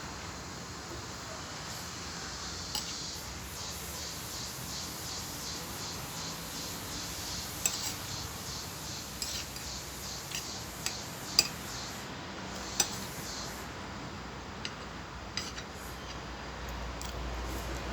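Cutlery clinking against a plate now and then during a meal, over a steady background hiss. One sharp clink a little past the middle is the loudest.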